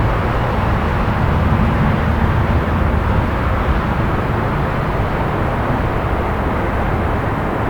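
Steady low rumble of distant city traffic, an even wash of noise with no single vehicle or event standing out.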